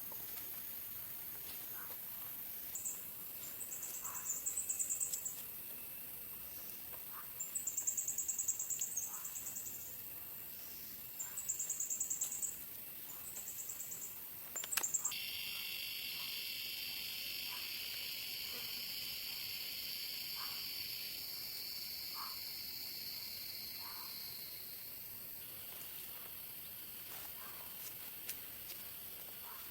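Forest insects calling: high, pulsing trills in bursts of one to two seconds, repeated several times. Then, after a sharp click about halfway through, a steady high insect drone that shifts in pitch and fades a little near the end.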